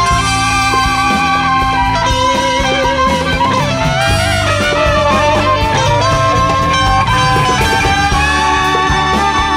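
A large jazz band playing live: a held, stepping melody line over guitar, bass and a steady drum kit.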